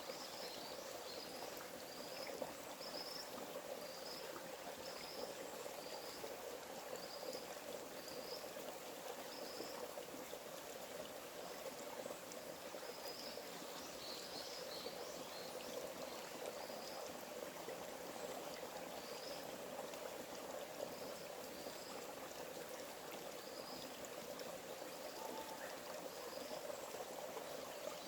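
A forest stream flowing steadily, with short high chirps repeating about once a second over the first half, then more sparsely.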